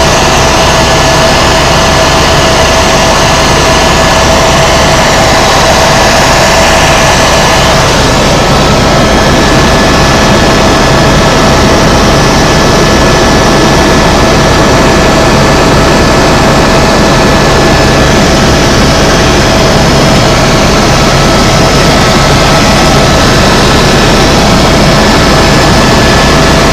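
Helicopter in flight heard from inside the cabin: loud, steady turbine and rotor noise with a constant whine held over it.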